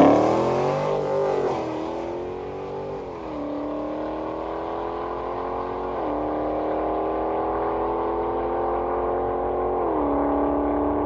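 5.7-litre Hemi V8 car on street tires accelerating away down the drag strip at full throttle. The engine note climbs in each gear and drops sharply at upshifts about 2, 3, 6 and 10 seconds in, fading over the first few seconds and then holding steady.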